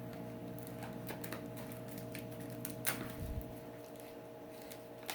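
A parcel being handled and opened: scattered faint clicks and rustles, with a couple of slightly louder knocks about three seconds in, over a steady low hum.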